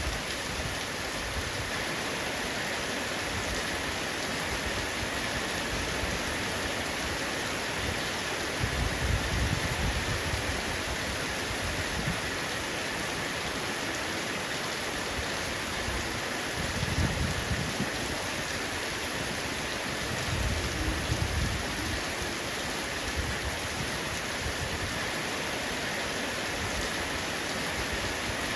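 Heavy rain drumming steadily on a roof, a dense even hiss. Three short low rumbles rise out of it about a third of the way in, past halfway, and soon after.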